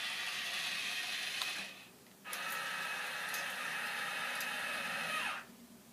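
Small electric motor and gears of a toy radio-controlled forklift whirring, running on weak batteries. It stops briefly about two seconds in, then runs again for about three seconds.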